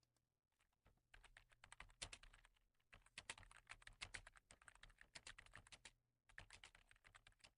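Typing on a computer keyboard: rapid keystrokes in runs, with brief pauses about three seconds in and again about six seconds in.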